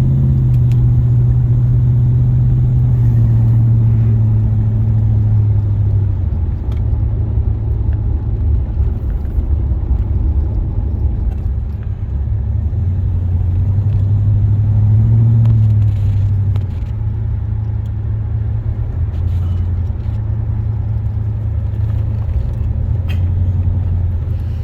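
1976 Oldsmobile Cutlass Salon's 455 Rocket V8 pulling the car along the road: a steady low drone over road noise. The pitch rises about fifteen seconds in and drops back a second later.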